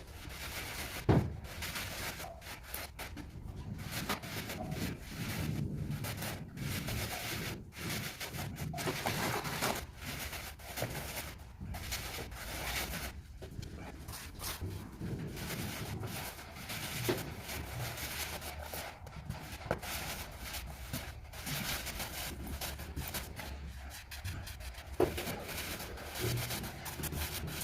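Trowel scraping and rubbing across wet cement mortar while the floor bed is screeded and smoothed. A sharp knock about a second in and a smaller one near the end.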